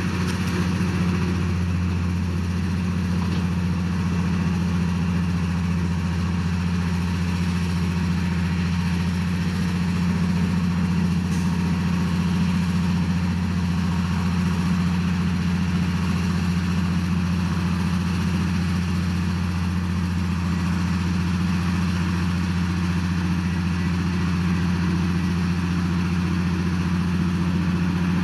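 Heavy diesel engine of earthmoving machinery running at a steady speed, a constant low hum with no revving or load changes.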